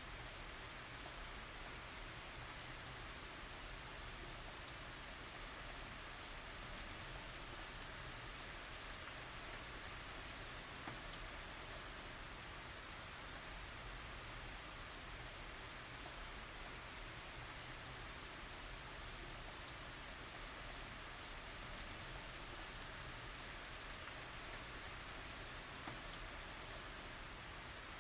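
Steady tropical rain falling, an even hiss with scattered light drop ticks.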